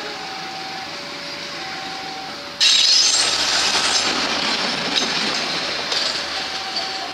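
A level-crossing warning alarm sounds, alternating between two tones about every 0.7 s. About two and a half seconds in, a passenger train's coaches rush past close by with loud wheel-on-rail noise that starts suddenly and eases off as the last coach goes by.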